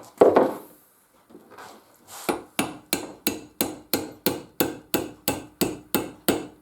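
Hammer knocking a pin through a Record No. 3 bench vice: one blow, a pause, then a steady run of about three blows a second.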